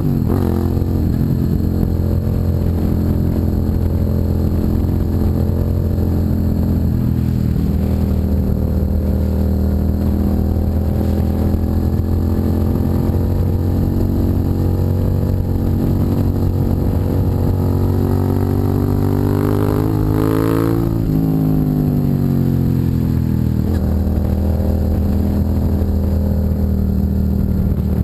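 Suzuki SV650's V-twin engine running through a custom aftermarket exhaust under way, its note steady for most of the time. Late on it climbs in pitch, then drops suddenly and falls away before levelling off again.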